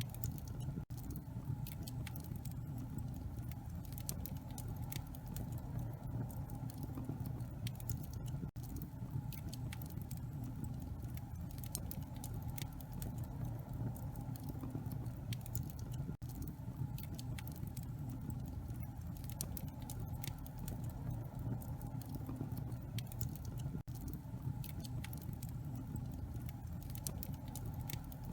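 Wood fire in a fireplace crackling, with many small sharp pops over a steady low rumble of the burning logs.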